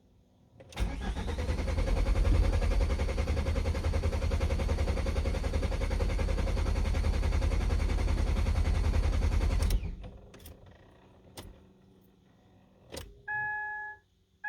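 Ford Mondeo Mk4 1.8 TDCi diesel cranking on the starter motor for about nine seconds without catching, then stopping abruptly: the fuel system needs priming after the injector change. A few clicks and two short electronic beeps follow near the end.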